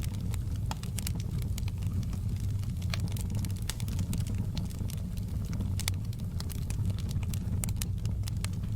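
Wood fire crackling in a fireplace: frequent irregular pops and snaps over a steady low rumble of the flames.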